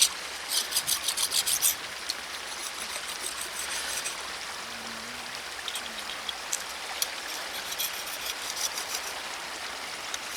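Metal shashlik skewers being scraped clean in bursts of quick rasping strokes, several per second, over a steady hiss.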